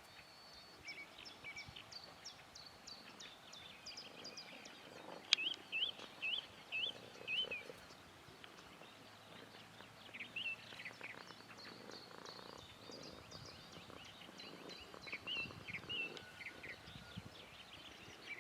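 Small birds chirping and singing faintly throughout. About five seconds in, a single sharp click is followed by a run of five louder rising-and-falling notes, and more clusters of notes come later on.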